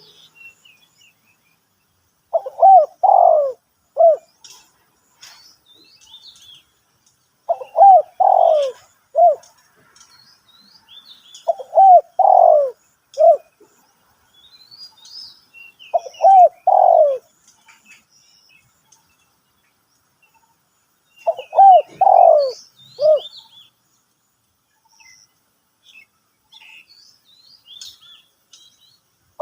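Spotted dove cooing, a three- to four-note phrase repeated five times, one every four to five seconds. Faint high chirps of small birds sound between the phrases.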